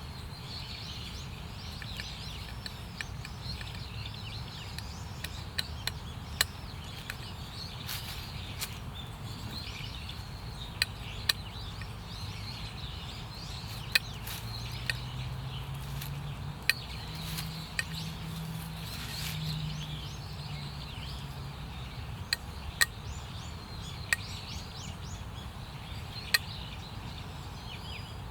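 Small birds chirping over a steady low outdoor rumble, broken by about a dozen sharp, irregular clicks or snaps. A faint low hum rises slightly about halfway through and fades a few seconds later.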